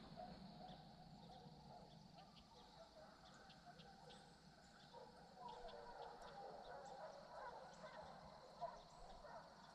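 Near silence, with faint distant animal calls coming in about five seconds in and fading again near the end.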